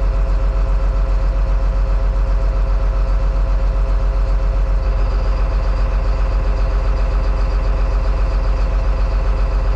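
John Deere 724J loader's common-rail diesel engine idling unevenly with a steady pulsing beat, during an injector cutout test with cylinder 2 cut out; the rough sound stays, so cylinder 2 is not what causes it. A faint high whine joins about halfway through.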